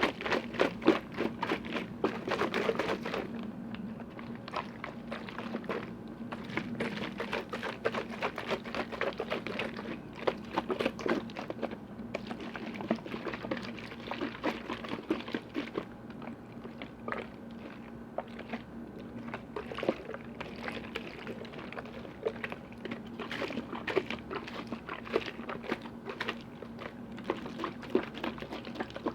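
Rapid tapping and clicking on lids and containers, with liquid sounds, busiest and loudest in the first three seconds. A faint steady hum runs underneath.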